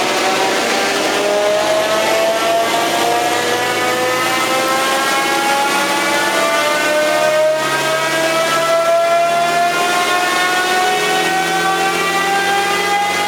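Mitsubishi Pajero rally car's engine running under load on a chassis dynamometer, its pitch climbing slowly and steadily over the whole run, with the noise of the spinning wheels and rollers underneath.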